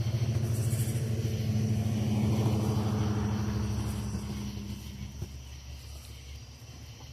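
Low hum of a motor vehicle's engine that swells to its loudest about two and a half seconds in, then fades away.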